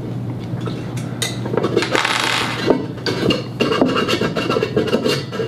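Metal parts of a monitor stand scraping, rubbing and clinking as the base is screwed onto the pole and tightened by hand, with irregular scrapes starting about a second and a half in.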